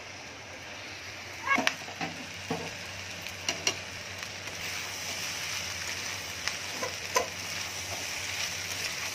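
Pasta and vegetables sizzling in a metal kadai over a gas flame, just after soy sauce goes in, while a steel spatula stirs them. The sizzle grows a little louder as it goes, and the spatula knocks and scrapes against the pan several times around two seconds in and twice more midway.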